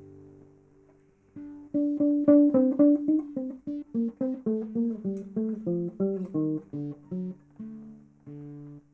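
Martinez MC-58 classical guitar, with rosewood back and sides, played solo. A chord rings and fades away. After about a second and a half, a quick run of single plucked notes begins; it slows and thins out to a few separate notes near the end.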